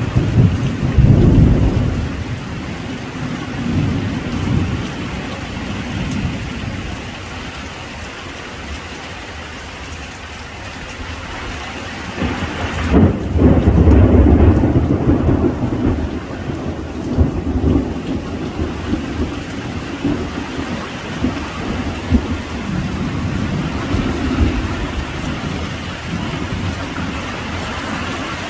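Steady heavy rain with thunder rumbling, once just at the start and again in a longer, louder roll about halfway through.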